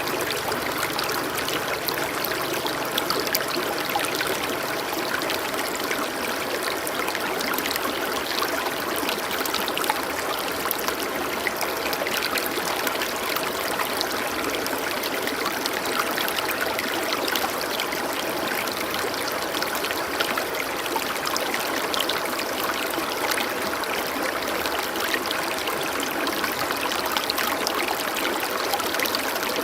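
A shallow stream running steadily, its water trickling and splashing over stones with many small droplet splashes.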